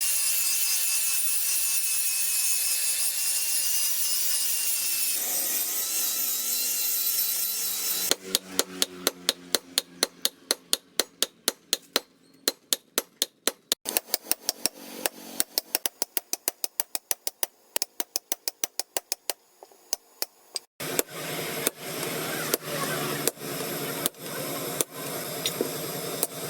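Metalworking on an old steel file. A power tool runs with a steady whine for about eight seconds. Then comes a run of sharp hammer strikes at about four a second, and in the last five seconds fast rhythmic rasping strokes.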